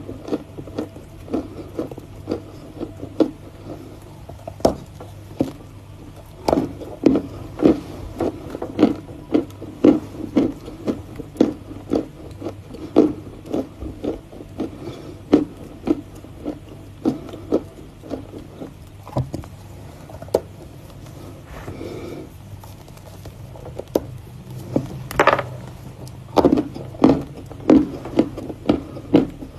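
Close-miked chewing of something crunchy, with short crunches coming about once or twice a second. The crunching thins out for a few seconds past the middle, then picks up again with a louder crunch.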